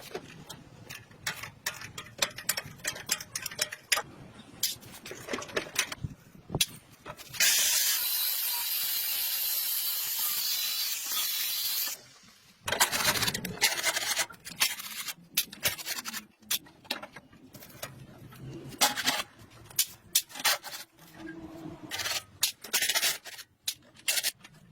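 Scattered knocks and scrapes of hand work on metal, with a steady, loud hiss of spray in the middle that lasts about four and a half seconds and stops abruptly.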